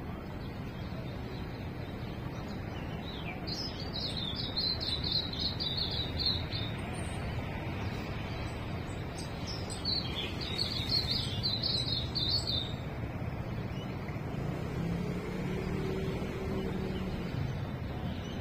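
A songbird singing two phrases of rapid high chirping, each about three seconds long, over a steady low background rumble.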